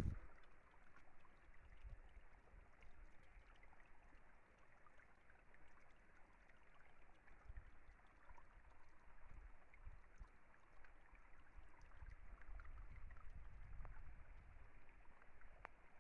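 Faint, steady rushing of a small forest stream, with low rumble on the microphone swelling now and then and scattered light clicks.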